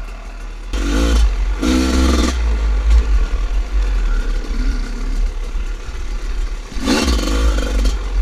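Two-stroke dirt bike engine revved in three short bursts, about a second in, about two seconds in and near the end, with a steady low engine rumble between them.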